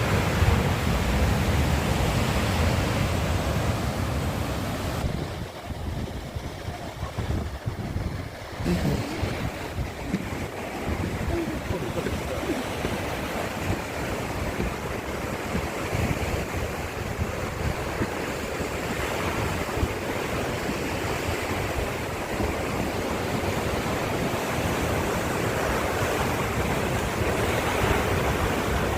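Sea surf breaking and washing along the shore, a steady rushing with wind on the microphone. It drops away for a few seconds about five seconds in, then comes back.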